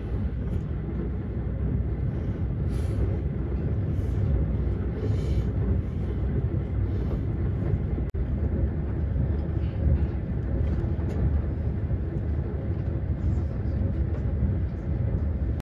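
Steady low rumble of a Fuxing high-speed train running at speed, heard from inside the passenger car. A few short rushing swells come about three to five seconds in.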